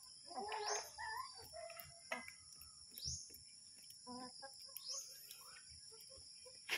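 Faint bird calls: a short rising chirp about every two seconds among lower, shorter calls, over a steady high-pitched hiss.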